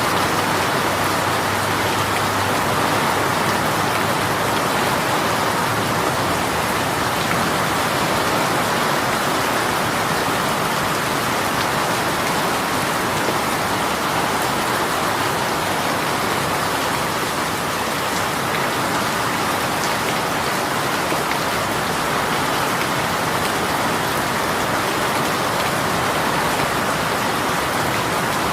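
Heavy rain shower pouring steadily onto a surface, a dense, even hiss of raindrops.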